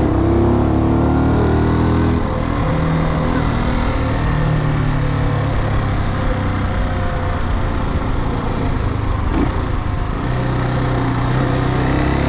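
Brixton Cromwell 250's single-cylinder four-stroke engine running under a rider on the road, with wind and traffic noise. The engine note is steady for the first two seconds or so, turns rougher and less even through the middle, and steadies again near the end.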